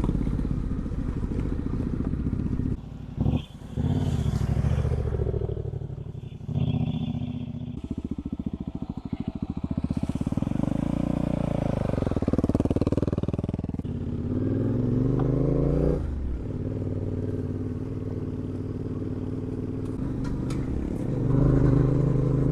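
Adventure motorcycle engine under way on a rough dirt track, the revs rising and falling with throttle and gear changes.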